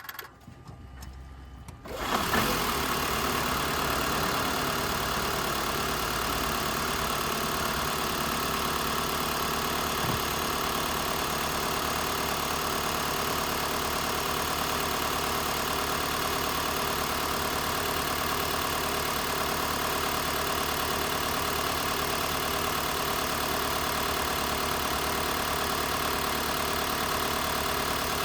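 Mitsubishi Outlander PHEV's 2.0-litre four-cylinder petrol engine starting about two seconds in, then idling steadily.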